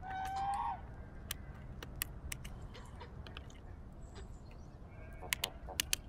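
A farm bird gives one call at the start, a steady tone lasting under a second that bends upward at the end. Sharp taps come irregularly throughout, with a quick cluster near the end: a downy woodpecker pecking at the willow bark.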